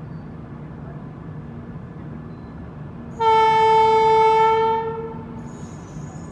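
Locomotive horn sounding one long blast, about a second and a half, starting about three seconds in and fading out, over a steady low rumble.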